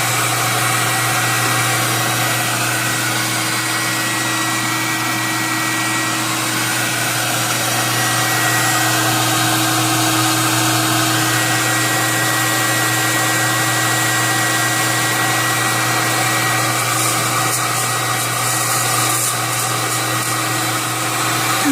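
Electric blower of an air-popper coffee roast box running steadily with a hum and a high whine while cooling freshly roasted beans. It cuts off suddenly at the end.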